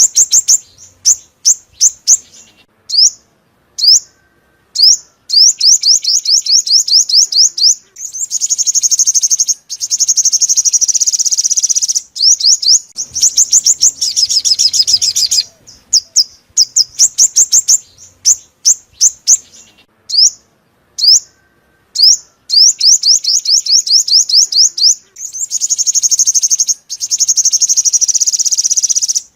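Sunbird song: series of sharp, high chirps, running into fast rattling trills about eight seconds in and again near the end. The whole phrase repeats about every 13 seconds, as a looped lure recording does.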